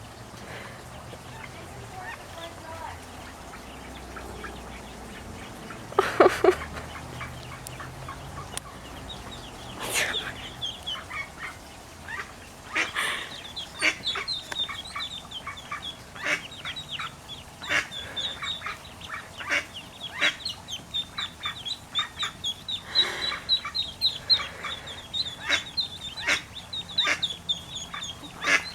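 Ducklings peeping: many short, high-pitched peeps in rapid, uneven runs that grow busier in the second half, with a louder, lower call about six seconds in.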